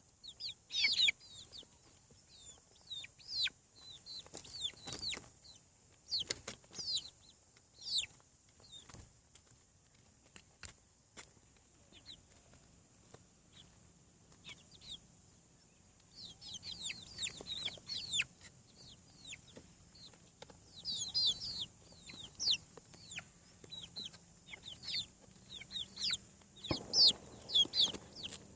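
Young chicks peeping: many short, high calls that slide downward, coming in busy flurries with quieter gaps between. A few sharp clicks sound in the quieter stretch.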